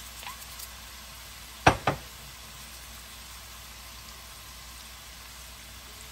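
Potato and sausage slices sizzling softly in oil in a frying pan, a steady hiss. Two sharp knocks in quick succession, about two seconds in, stand out above it.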